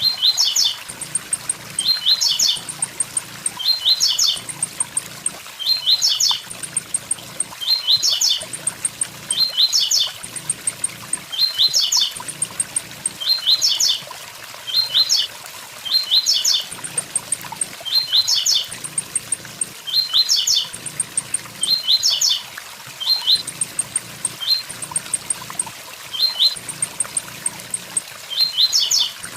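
Blue-black grassquit (tiziu) singing its short 'tui tui zel zel' phrase, high and quick, repeated about every two seconds over the steady rush of a waterfall.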